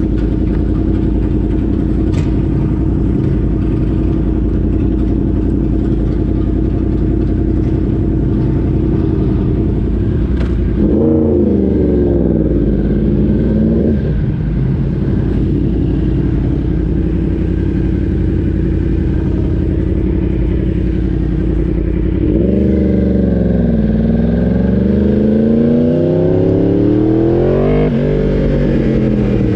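Motor vehicle engine running steadily under way. About 11 seconds in, and again from about 22 seconds, the engine note swings down and back up in pitch as the revs change.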